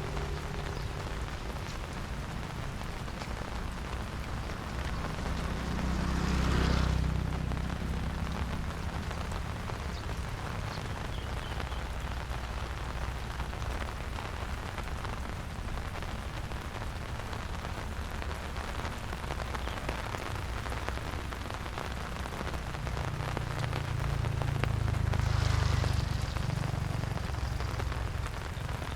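Steady rain falling. Twice, about 7 seconds in and again near the end, a low rumble swells up and fades away over a few seconds.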